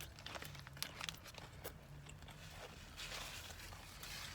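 A person chewing a mouthful of crispy fried chicken sandwich, with faint, irregular crunches and mouth clicks.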